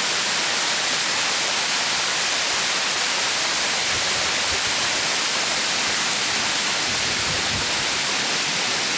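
Steady rush of falling water from a waterfall, an even hiss that holds at one level throughout.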